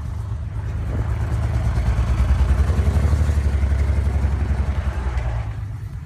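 BMW 335i's turbocharged straight-six engine and exhaust running with an uneven, pulsing rumble that grows louder about a second in and eases off near the end. It sounds like a misfire, which the owner suspects comes from a coil pack or fuel injector.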